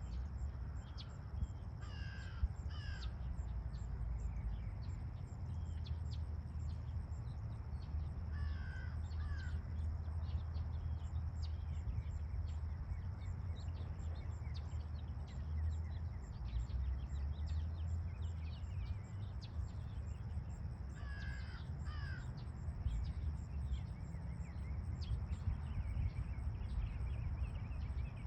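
Outdoor ambience: a steady low rumble with bird calls, in clusters of two or three about two, nine and twenty-one seconds in, and fainter scattered chirps between.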